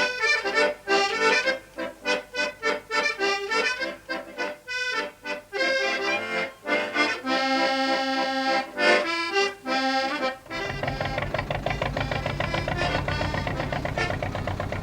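Concertina playing a lively traditional tune in quick, detached notes and chords. About ten and a half seconds in, the playing turns into a steadier, fuller sound with a low drone underneath.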